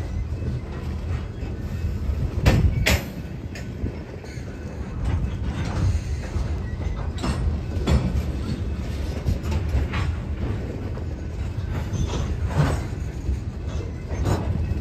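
Freight train of covered hopper cars rolling past close by: a steady low rumble of steel wheels on the rails. Sharp clanks come at uneven intervals, a pair of them the loudest about two and a half seconds in.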